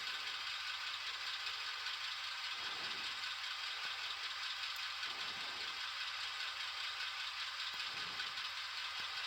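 Sound-equipped HO-scale model diesel locomotive, an Atlas MP15DC with an ESU LokSound 5 decoder, idling: the decoder's diesel idle sound played steadily through the model's small onboard speaker.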